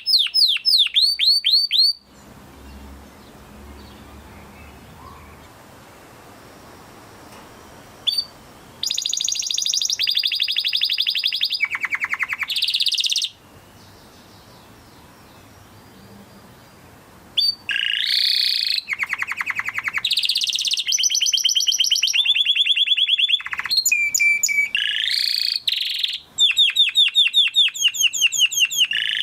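Canary singing in trills of rapidly repeated notes, changing from one rolling phrase to the next. A short phrase at the start and another in the middle are each followed by a pause of several seconds; the song then runs almost unbroken through the last twelve seconds.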